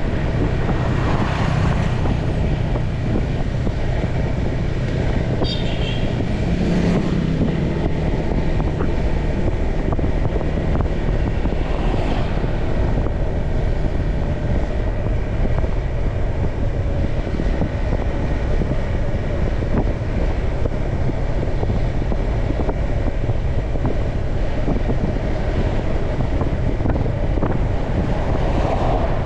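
Motorcycle riding through town traffic: a steady engine drone under heavy wind buffeting on the microphone, with a brief high-pitched sound about five seconds in.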